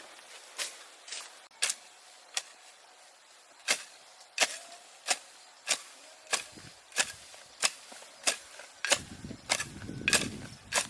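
A hand tool striking wood again and again, in sharp, evenly spaced knocks about three every two seconds. A low rumble joins in about nine seconds in.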